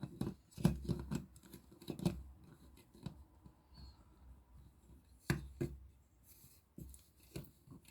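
Small plastic model parts being handled and fitted together on a table: irregular light clicks, taps and rustling, busiest in the first two seconds, with two sharper clicks about five seconds in.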